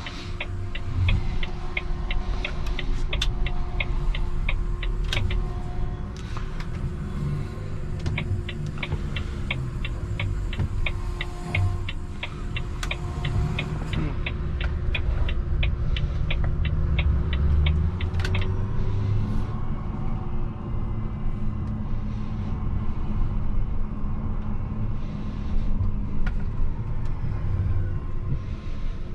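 Garbage truck's diesel engine rumbling steadily, heard from inside the cab, with a fast, even ticking of about three clicks a second that stops about eighteen seconds in.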